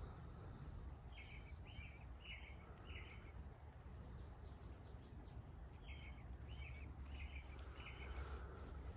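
Faint bird calls: a run of four short, evenly spaced notes, then after a pause another run of four, with a few faint higher chirps between them, over a low steady rumble of outdoor ambience.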